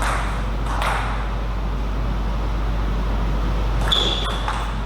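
Table tennis ball clicking off bats and the table during play, over a steady background hum of the hall. Near the end there is a brief high squeak among a quick cluster of clicks.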